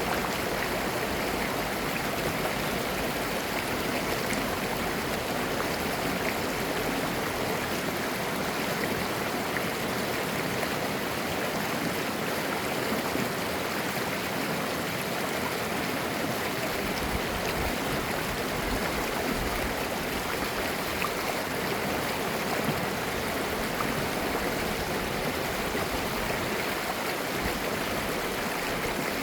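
A clear mountain stream flowing and babbling over rocks in a steady, even rush of water.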